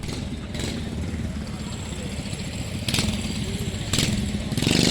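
A vehicle engine idling with a rapid, steady low pulse, punctuated by a few sharp clicks. It gets louder and harsher near the end.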